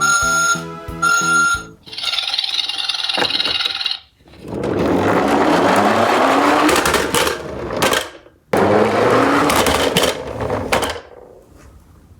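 Toy garbage truck minicar running along a slope track: two runs of about three seconds each of rattling, rolling noise with a rising whir, after a short bit of background music.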